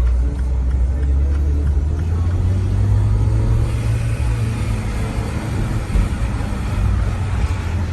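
Turbocharged four-cylinder engine of a MINI R57 running under way in a hard drive. Its low drone climbs in pitch about three and a half seconds in as the engine pulls harder, with a rising rush of noise over it.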